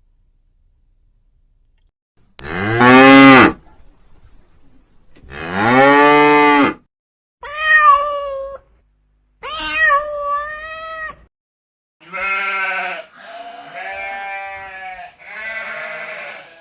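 A cow mooing twice in long, arching calls, then a cat meowing twice, then a sheep bleating three times with a wavering voice, each call set apart by a short silence.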